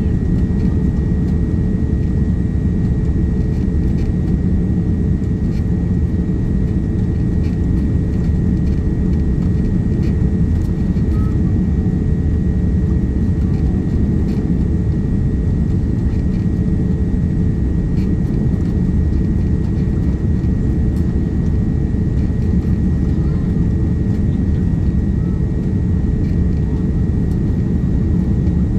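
Steady cabin noise inside a Boeing 787-9 airliner: an even rumble of engines and airflow, with a constant mid hum and a thin high whine above it.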